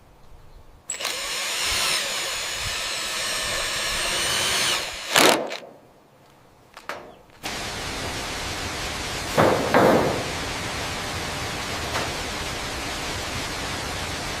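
A power tool, like a drill, runs with a high whine for about four seconds, then cuts off. After a short gap, a steady rushing noise takes over.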